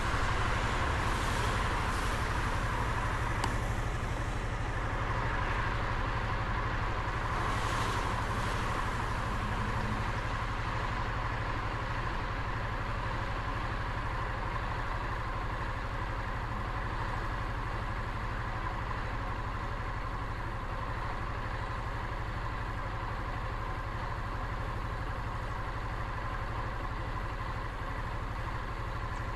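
Motorcycle engine running steadily while riding, under a constant rush of wind and road noise. A few brief sharp noises come in the first several seconds.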